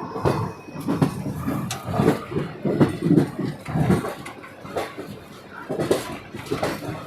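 Indistinct voices of people talking, coming and going in short stretches.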